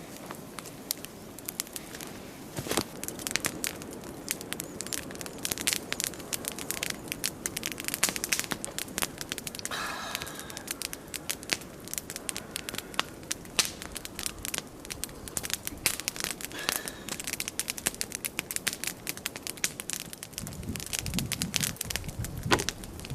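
Big log campfire crackling, with many sharp pops and snaps over a low steady rush of the flames.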